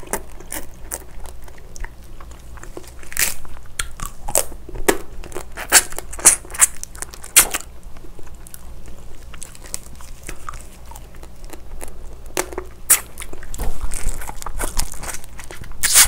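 Close-miked eating: biting and chewing soy-marinated raw crab and rice, with many irregular crunchy, crackling clicks.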